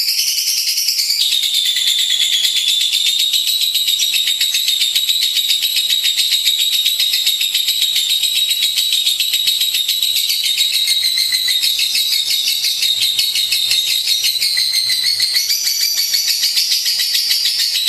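Lovebird singing a long, unbroken, high-pitched chattering song of very rapid notes.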